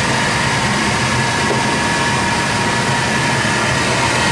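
HVAC fan motor running steadily: a loud, even rush of moving air with a low hum and a thin steady whine.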